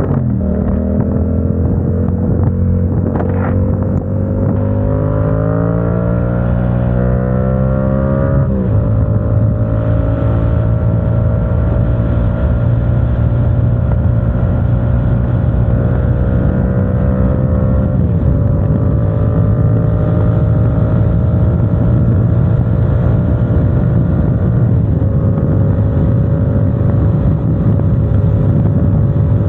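Motorcycle engine under load while riding. Its pitch climbs steadily, then drops sharply three times, at about a third of the way in, past the middle and near the end: upshifts through the gears.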